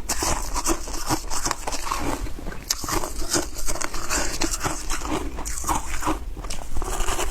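Ice being bitten and chewed close to the microphone: dense, irregular crunching and crackling.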